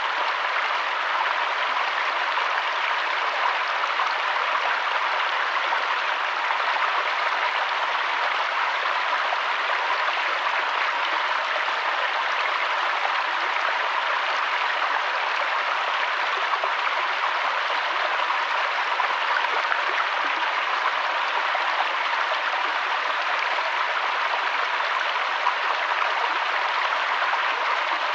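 River water flowing steadily, an even rushing hiss with no breaks or changes.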